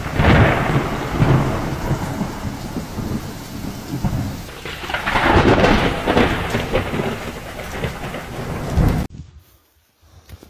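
Thunder rumbling over steady rain, swelling loudly twice, then cutting off abruptly about nine seconds in.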